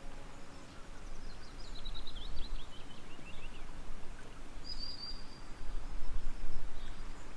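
Birds chirping over steady outdoor background noise: a falling run of quick high chirps, then a short call about five seconds in.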